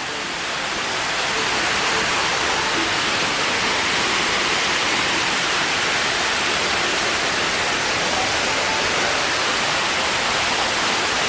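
Steady rush of falling water, growing louder over the first two seconds, then holding steady.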